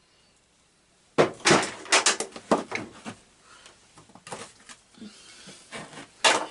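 Metal tools and parts clanking and rattling as they are handled during a lawn tractor teardown: after about a second of quiet, a quick run of sharp knocks and clatter, then scattered lighter knocks.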